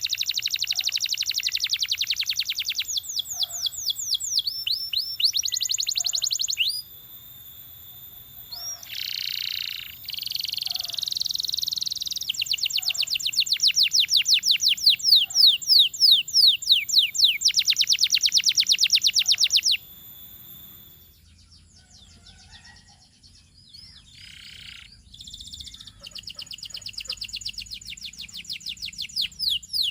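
Domestic canary singing: long, rapid high-pitched trills and rolling runs of quickly repeated sweeping notes, in phrases several seconds long. A quieter stretch with only scattered short notes comes about two-thirds of the way through.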